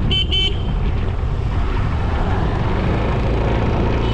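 A vehicle horn beeping twice in quick succession, two short high-pitched toots, over the steady low rumble of riding along a road.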